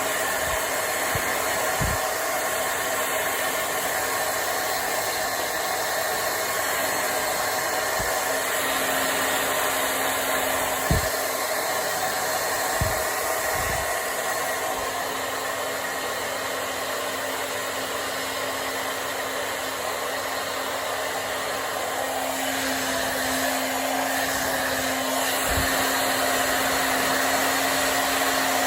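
Hand-held hair dryer running steadily, blowing air through hair, with a steady motor hum under the rush of air. A few soft low knocks occur along the way.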